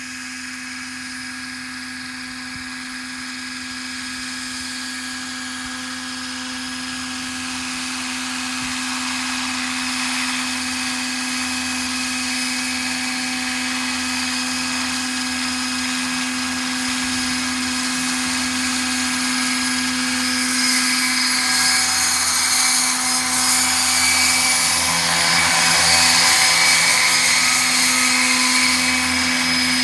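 Electric scale RC helicopter (Roban EC135) running at flight head speed: a steady motor and rotor whine over a rushing hiss, growing gradually louder and loudest near the end.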